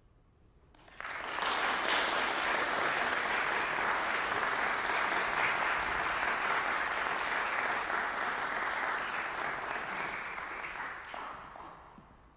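Audience applauding, breaking out about a second in after a brief hush and dying away near the end.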